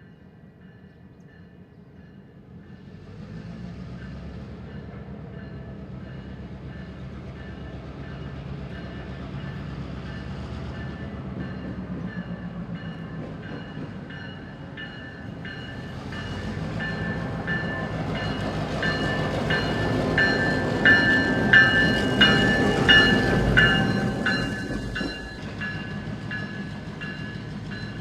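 EMD SD38-2 diesel-electric locomotive, with a non-turbocharged 16-cylinder engine, running along street track. Its engine rumble and a steady high ringing build as it approaches and are loudest about 20 to 24 seconds in, with a run of rhythmic clicks as the wheels pass. The sound then eases off as it moves away.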